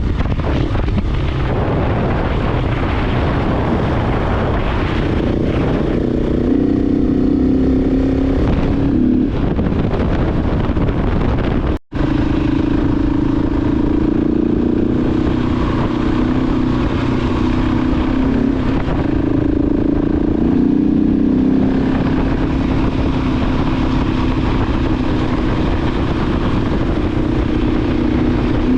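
KTM 690 Enduro R's single-cylinder engine running under way with wind noise, its note shifting up and down with engine speed. The sound cuts out for a split second about twelve seconds in.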